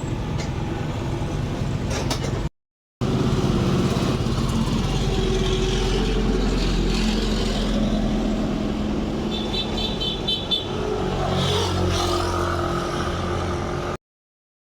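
A vehicle engine running steadily after its fuel pipe has been repaired. The sound drops out for half a second early on, a quick run of high beeps comes about two-thirds through, and it cuts off suddenly near the end.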